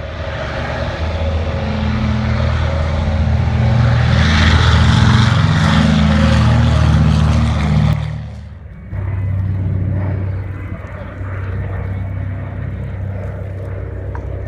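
Propeller aircraft engine droning, louder as it passes near the middle. It drops away suddenly a little after eight seconds in and goes on more quietly.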